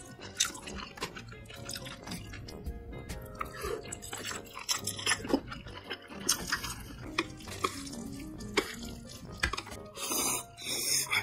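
Close-miked wet chewing of steamed scallop and spicy octopus: sticky mouth clicks and smacks throughout. Near the end comes a louder slurp of ramen noodles.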